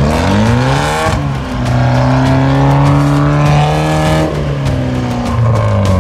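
Off-road 4x4's engine revving hard: the revs climb in the first second, hold high for about three seconds, drop about four seconds in, then climb again near the end.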